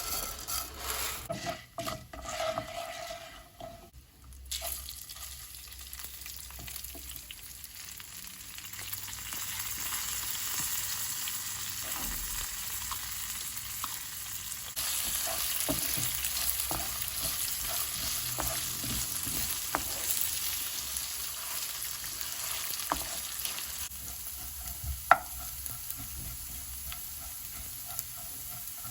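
Food sizzling in a hot frying pan, with a utensil stirring and scraping against the pan now and then. A few knocks and clatter open it, and the sizzle gets louder about halfway through.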